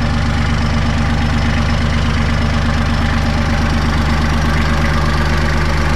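Kubota L3800 tractor's three-cylinder diesel engine running steadily at an even speed.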